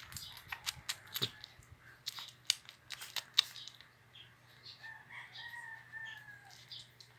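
A rapid run of sharp clicks and crunches through the first few seconds. About five seconds in, a rooster crows faintly in one long, slightly falling call.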